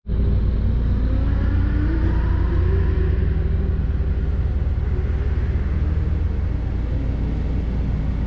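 Car engine idling steadily at the autocross start line, heard from inside the cabin, its sound mostly low-pitched with a faint wavering hum above.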